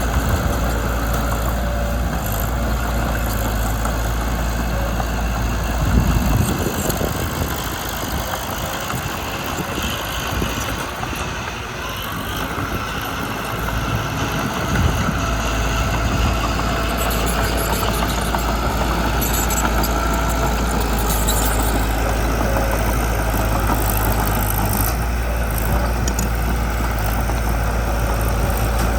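Mitsubishi BD2 bulldozer's diesel engine running with a steady low drone. About six seconds in there is a knock and the deep drone falls away for several seconds, then comes back after another knock.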